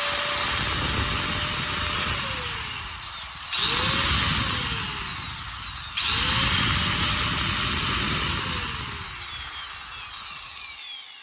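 Electric angle grinder (pulidora) test-run in short bursts: it is running at first and switched off about 2 s in, then switched on again about 3.5 s and 6 s in. Each time it spins up with a rising whine and coasts down with a falling one. It runs without the strange noise it had before, which was gone once the destroyed ball bearings were dealt with.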